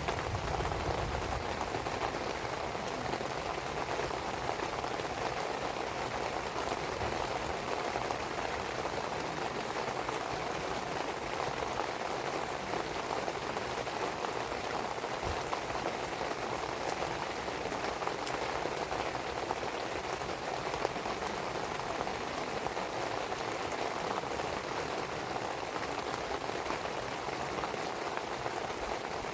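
Steady rainfall pattering on surfaces, an even hiss of drops, with a few faint pops from a burning wood fire.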